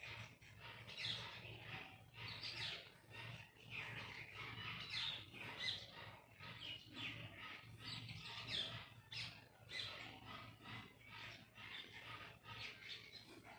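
Birds chirping in quick, short calls again and again, over a faint steady low hum.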